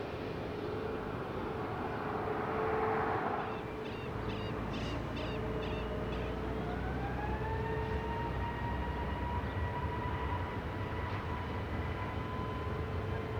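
Jet airliner engines whining, the pitch rising about six seconds in and then holding steady over a constant hum, as thrust comes up. A short rapid series of bird calls sounds just before the whine rises.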